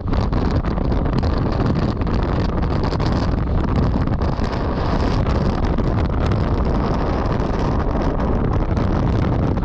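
Strong wind buffeting the microphone: a loud, steady roar heaviest in the low end, with small crackles through it.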